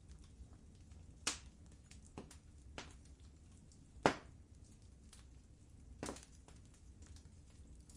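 Wood fire crackling in a fireplace: scattered sharp pops and ticks, the loudest about four seconds in, over a low steady rumble of the burning fire.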